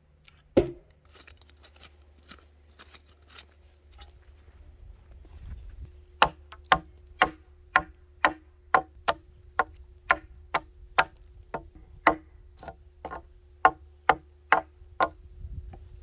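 A series of sharp knocks: one loud knock about half a second in and a few faint ones after it, then from about six seconds in a steady run of strikes, about two a second.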